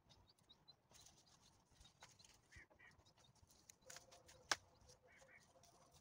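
Near silence: faint high bird chirps repeating, with a single sharp click about four and a half seconds in.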